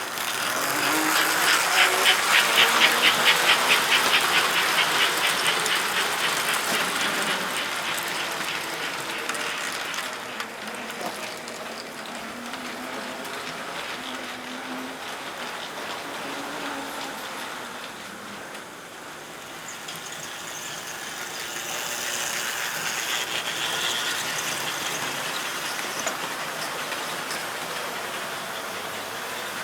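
Electric model trains running on HO and American Flyer S-gauge track, a continuous running rattle with a fast, even clicking. The clicking is loudest in the first few seconds as a train passes close, and it swells again a little past two-thirds of the way through.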